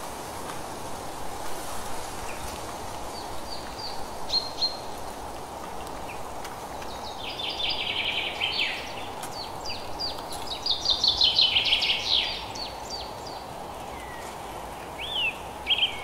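Songbirds singing over a steady background hiss of outdoor ambience. A few short chirps come about three to four seconds in, then bursts of rapid chattering song around the middle, and quick rising calls near the end.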